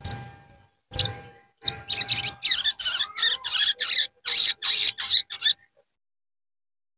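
Crimson sunbird (sogon) calling: two short high calls, then a fast, loud run of sharp chirps that stops abruptly a little past five seconds in, a recording used as a lure to set other sogons singing.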